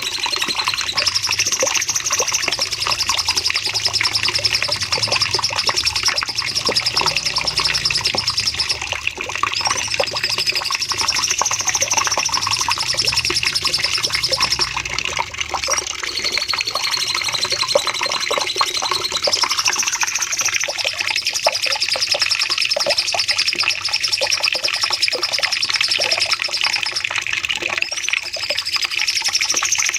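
Cucak cungkok, a leafbird, singing non-stop in long, rapid, high-pitched trilled phrases packed with quick notes, the 'nembak panjang' song used for masteran training.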